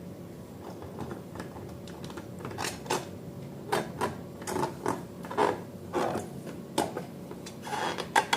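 Irregular light clicks and taps of something being handled, sparse at first and becoming louder and more frequent after about two and a half seconds.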